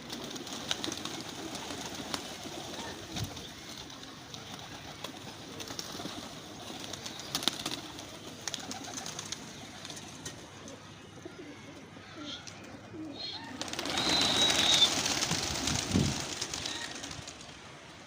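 Domestic pigeons cooing, with scattered small clicks and scuffles. Near the end a louder rushing noise lasts about two seconds.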